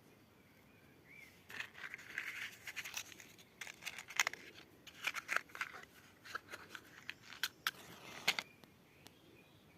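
Dry wood crackling and snapping in quick, irregular sharp clicks for about seven seconds, starting a second or so in and dying away near the end, with birds chirping faintly.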